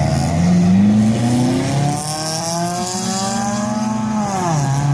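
Car engine accelerating hard, its pitch climbing with a step partway through as it shifts gear, then falling steeply near the end.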